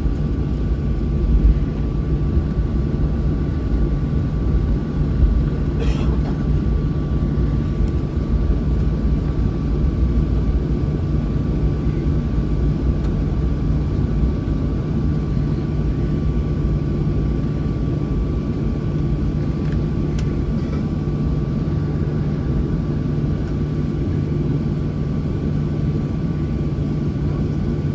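Cabin noise inside a Boeing 737 on the ground with its engines at idle before takeoff: a steady low rumble with a constant hum and a thin, steady whine. There is a brief click about six seconds in.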